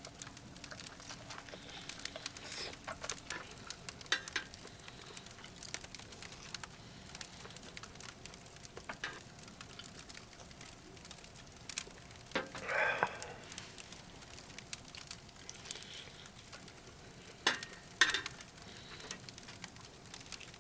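Firewood crackling in a titanium wood stove: scattered small pops and snaps over a faint hiss, with a few louder cracks in the second half.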